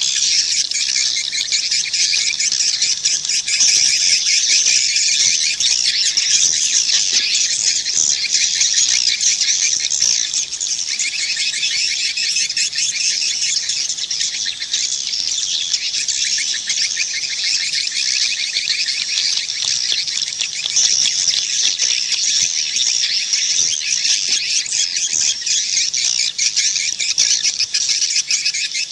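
Swiftlet call recording: a dense, unbroken chorus of high chirps and twitters from edible-nest swiftlets. It is the kind of call sound that swiftlet farmers play to lure birds into a nest house.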